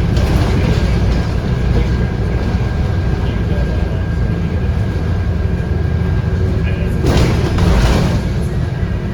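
Inside a moving Scania K230UB bus: the Scania DC9 8.9-litre five-cylinder diesel and road noise rumble steadily, with a thin steady whine above. A burst of hissing noise comes about seven seconds in and lasts about a second.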